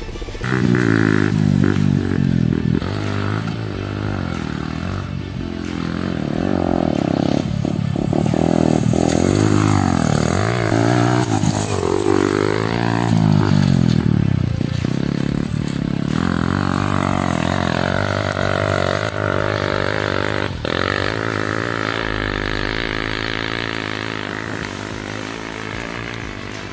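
Yamaha R15 150cc motorcycle engine, converted for dirt riding, running under load. Its pitch rises and falls repeatedly as the throttle opens and closes.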